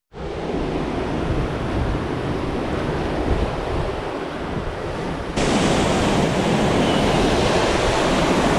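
Steady rush of ocean surf and falling water, with wind buffeting the microphone. About five seconds in it changes abruptly to a louder, hissier rush.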